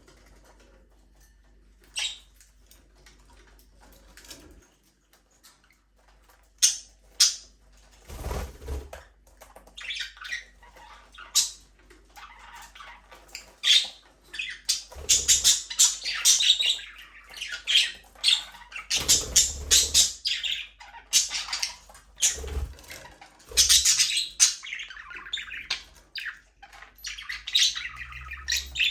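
A flock of budgerigars chirping and squawking, sparse at first and then a busy, overlapping chatter from about halfway through. A few low thumps come in among the calls.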